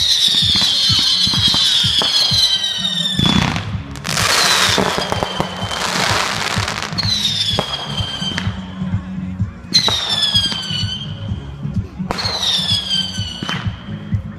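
Whistling fireworks going off one after another: five shrill whistles, each falling a little in pitch over a second or two. Sharp pops and a burst of hissing crackle come between them.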